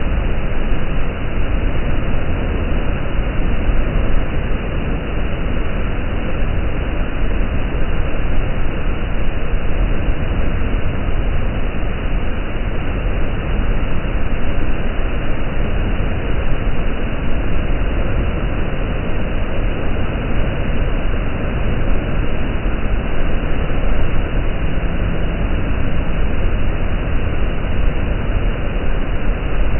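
Steady, loud rushing of the Giessbach waterfall cascading down the mountainside, an even roar with no breaks.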